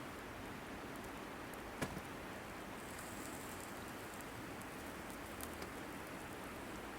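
Wood burning in a campfire or wood stove, a steady hiss with one sharp crackling pop about two seconds in and a couple of faint ticks later.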